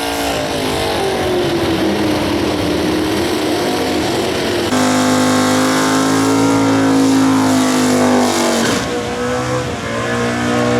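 Muscle car engines running hard. The pitch sags and rises, then holds high and steady, with abrupt changes to a different engine note about halfway through and again near the end.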